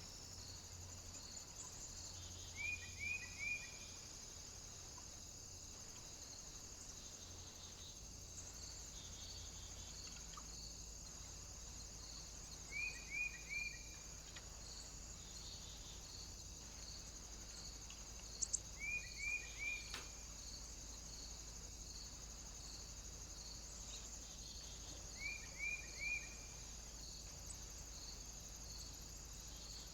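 Groups of three quick, high chirps, repeated four times several seconds apart, over a faint steady high-pitched hiss with a light regular ticking. A couple of sharp clicks come about two-thirds of the way in.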